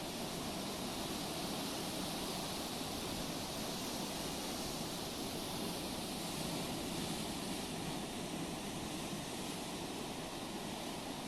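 Sea surf: a steady wash of waves with no single break standing out.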